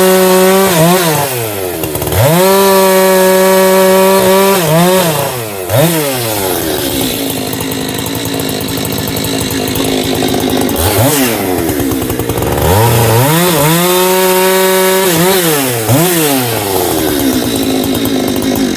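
Two-stroke chainsaw bucking firewood: revved to full throttle and let off several times, its pitch dropping and running rougher while the chain is in the wood, for several seconds in the middle and again near the end.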